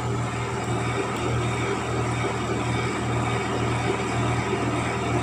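Microwave oven running on its highest ('jet') power setting while heating a glass of water: a steady low hum.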